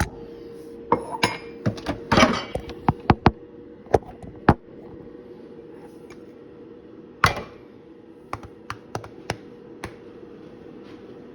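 Clicks, knocks and clatter of a ceramic coffee mug being handled and set down at an espresso machine, with two longer scraping clatters about two and seven seconds in, over a steady low hum.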